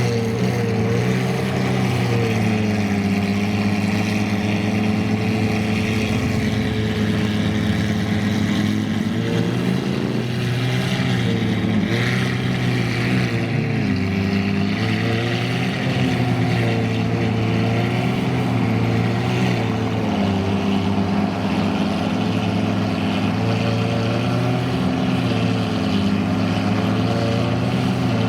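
Supercar engine running at a steady idle, a low even note whose pitch lifts briefly a few times with light throttle.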